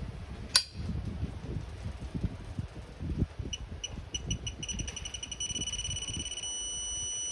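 Digital torque wrench beeping while a cylinder-head bolt is tightened through its angle step. Short beeps come faster and faster, then merge into one steady tone as the set angle is reached. There is a sharp click about half a second in, with low knocking of the wrench and engine block underneath.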